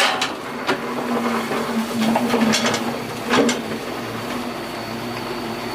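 Doosan 140 excavator's diesel engine running steadily under work, with a few sharp clanks from the machine in the first few seconds.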